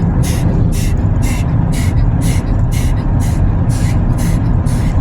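Automatic car wash dryer blowers heard from inside the car: a steady loud roar with a high hiss that pulses about twice a second.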